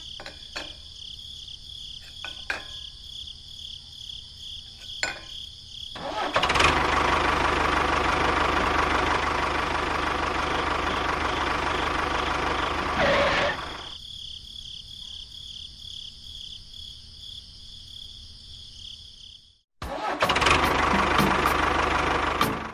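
A small motor running with a steady high whine, with a few sharp clicks in the first five seconds. A louder, rougher running sound comes in about six seconds in and drops away at about thirteen seconds. It cuts off abruptly and returns near the end.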